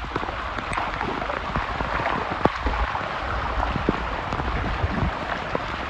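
Heavy rain pouring steadily, a dense hiss with many scattered drops tapping on surfaces.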